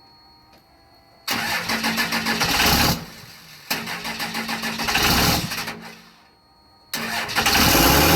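24-valve Cummins diesel being cold-started: the starter cranks it over in three separate tries with pauses between, and on the third it catches and runs near the end. It is struggling to fire after sitting for three days.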